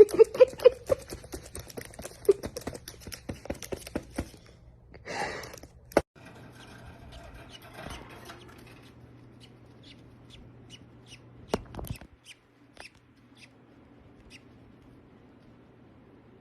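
A pet parrot eating, its beak clicking, crunching and scraping on food in quick, dense bursts for the first few seconds, then thinning to occasional sharp clicks and faint ticks.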